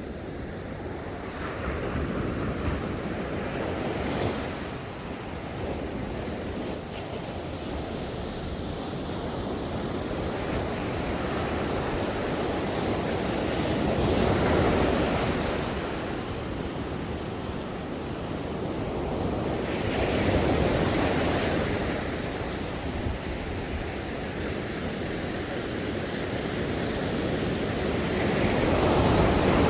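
Ocean surf washing onto a shore: a steady rush of water that swells and falls back as waves break every several seconds, with the biggest surges about halfway through and near the end.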